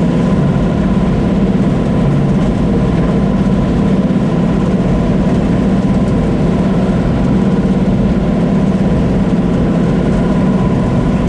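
Combine harvester running steadily: an even engine drone with a constant hum and a steady higher whine over it.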